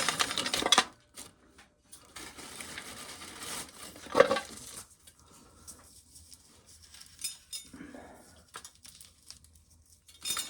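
Dry corn clattering and rattling as it is shelled: a dense rattle in the first second, then scattered clicks and clinks with one louder knock about four seconds in.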